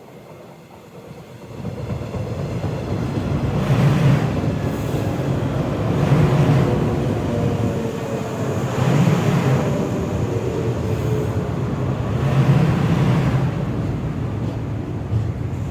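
A train running past at speed. It builds up about a second and a half in, swells every two to three seconds, and cuts off suddenly at the end.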